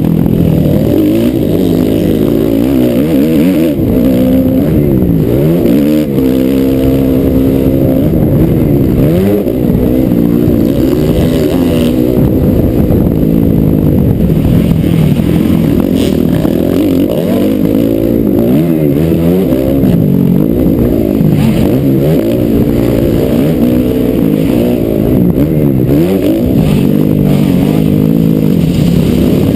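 Motocross bike engine under hard riding, revving up and dropping back again and again as the rider accelerates, shifts and rolls off through the track's sections. There is a brief sharp click about sixteen seconds in.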